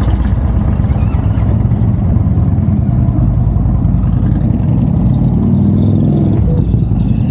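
Motorcycle engine running loudly with a deep, rapid rumble, pitch rising a little as it revs partway through.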